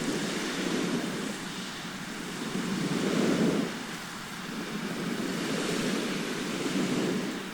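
Sea surf washing onto a shore: a steady rush of waves that swells and eases, with the loudest surge about three seconds in.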